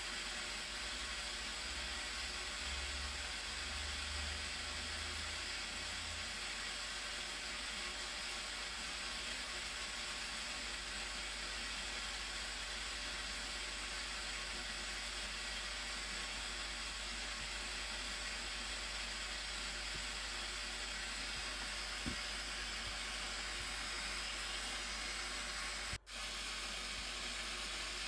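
Steady rushing noise of a large waterfall, with a brief dropout near the end.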